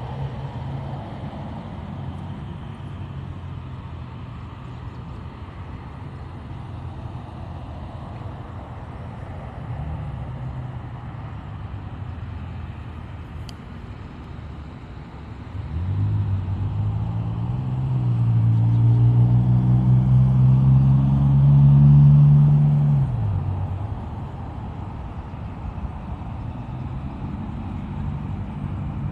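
Steady low rumble of road traffic. About halfway through, a vehicle engine grows louder, its pitch edging up, then fades a few seconds later as it passes.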